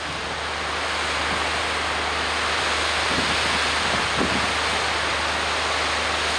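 Storm wind and surf: a steady, even rushing noise.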